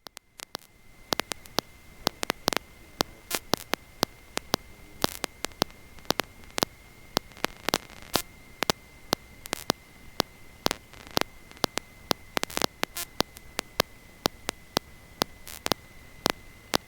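Electrical static on an audio line: irregular crackles and clicks over a steady high-pitched whine, with no engine sound through it.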